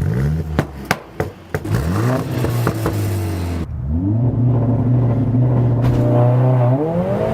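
Mercedes-AMG A45 S turbocharged 2.0-litre four-cylinder revving through a turbo-back sports exhaust: several quick blips with popping crackles as the revs drop, then held at a steady higher rpm for a few seconds before climbing again near the end.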